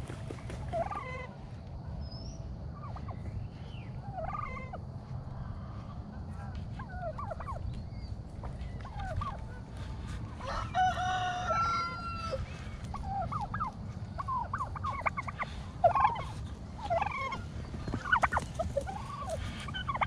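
Domestic poultry calling: turkeys and chickens giving short, scattered clucks and chirps, with a longer, louder call about eleven seconds in and busier calling in the last few seconds.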